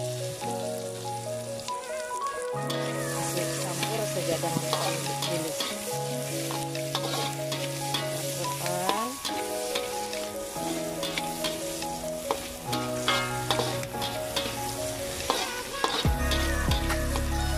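Sliced red onion and garlic sizzling in hot oil with dried anchovies in a wok, stir-fried with a metal spatula that scrapes and clicks against the pan; they are being sautéed until fragrant. Background music with held notes plays throughout.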